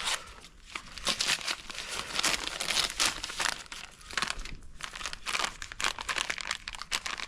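Plastic packet of ASD Super Dust DP insecticide dust crinkling as it is handled: an irregular run of rustles and crackles.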